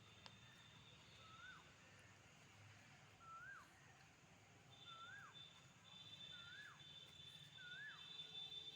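Faint animal call repeated five times at an even pace, each a short whistled note that rises and then drops sharply. A steady high-pitched whine joins about halfway through.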